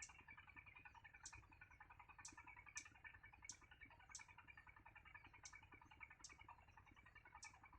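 Faint chirping of baby birds in the nest: a steady, dense twittering with short, sharp high cheeps about every half second to a second.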